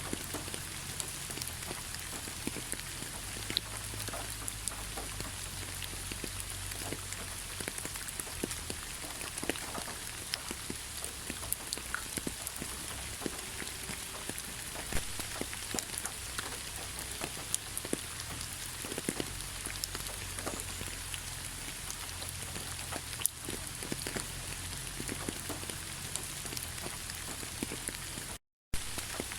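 Heavy rain falling steadily, a dense hiss scattered with the clicks of individual drops. The sound cuts out completely for a split second near the end.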